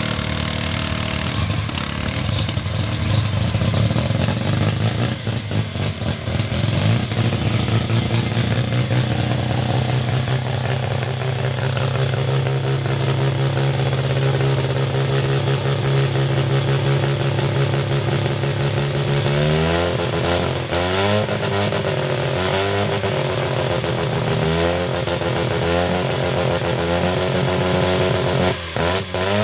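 Mazda Wankel rotary engine of a two-man racing hotsaw running at a steady pitch, then revved up and down over and over from about twenty seconds in.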